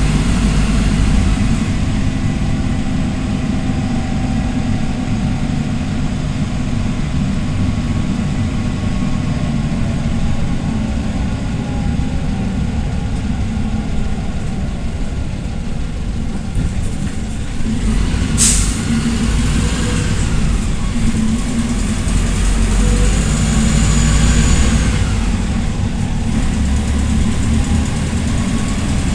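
PAZ Vector Next city bus's diesel engine running steadily during a ride. About two-thirds of the way through there is one short, sharp hiss of released air, followed by the engine's pitch rising and falling.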